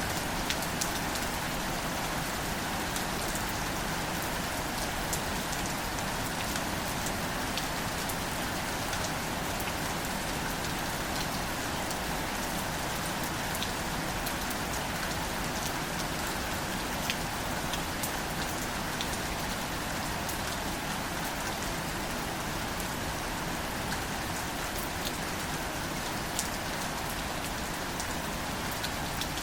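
Steady, gentle rain falling on leaves and wildflowers, a constant hiss with many small scattered drop ticks.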